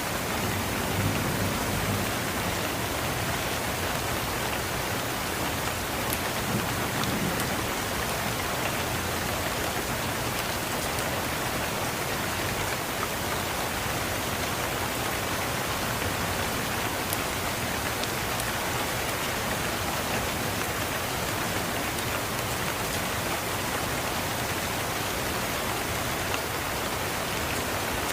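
Steady rain falling and spattering on surfaces, with a few faint crackles from a wood fire in a fireplace.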